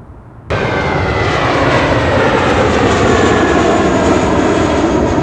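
Jet airliner's engines at takeoff power, loud and close. The sound starts abruptly about half a second in, with a whine that slowly falls in pitch as the aircraft passes.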